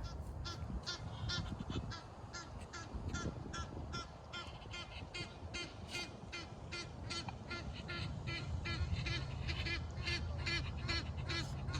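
Geese honking in a steady, rapid series of calls, about three a second.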